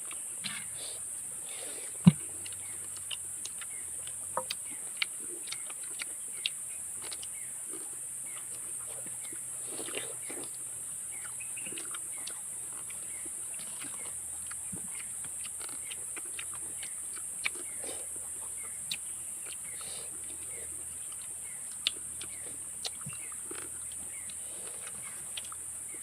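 Close-up eating sounds of balut being eaten: wet chewing and mouth smacks with scattered small clicks, and one sharp knock about two seconds in, over a steady hiss.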